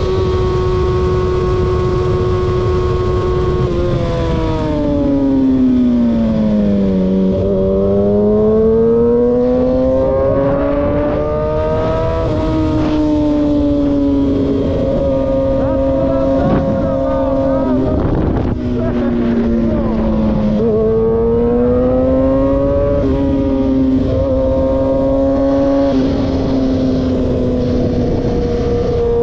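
Car engine running at a car meet, its note held steady at first and then slowly falling and rising several times as the revs change, with short knocks and clatter in the middle stretch.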